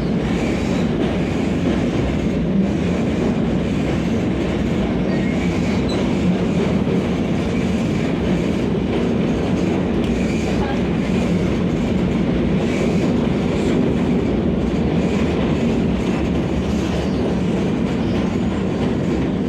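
Vande Bharat electric train set running on the rails, a steady rumble of wheels and coach heard from inside the carriage.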